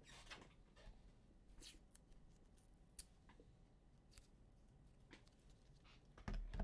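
Faint rustling and light clicks of trading cards and their packaging being handled on a table, with a soft thump near the end.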